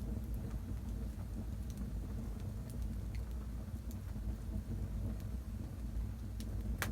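Wood fire burning in a fireplace: a steady low rumble of flames with scattered crackles and pops, one sharp pop near the end.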